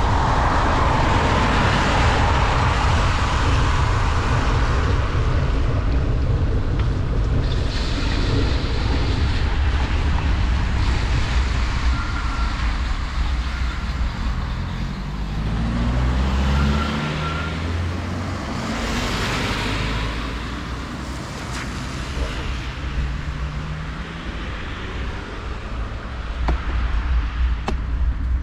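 Wind buffeting the microphone on a fast bicycle descent in heavy rain, over a steady hiss of rain and wet road. A motor vehicle passes about halfway through.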